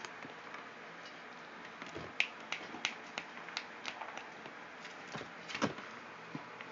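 Four-week-old pit bull puppies eating dry kibble: a scatter of about a dozen sharp, irregular clicks and crunches as the hard food is bitten and knocks against the dish, starting about two seconds in.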